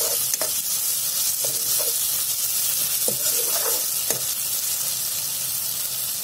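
Chopped tomatoes and onion masala sizzling in hot oil in a metal kadhai, with a steel ladle scraping and tapping against the pan every second or so as it is stirred. The tomatoes are being fried until soft.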